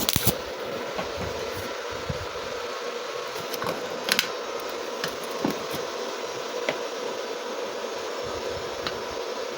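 Steady whirring hum of a fan-driven machine running at an even level, with a few light metallic clicks.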